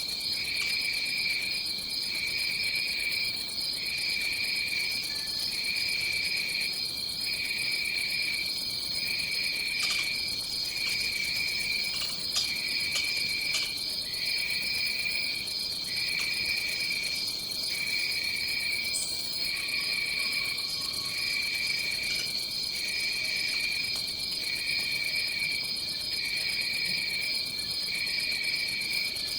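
Rainforest insect chorus: one insect trills continuously at a high pitch while a second, lower trill comes in phrases about a second long with short gaps between them. A few faint clicks sound near the middle.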